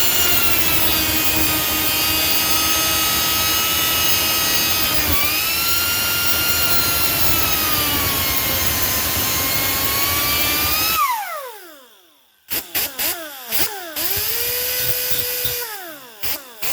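A high-speed cut-off wheel whines steadily while cutting into a multi-layer steel head gasket to open up its stud holes, the pitch sagging a couple of times under load. About eleven seconds in it spins down and stops. After a short pause it is triggered in several quick on-off bursts.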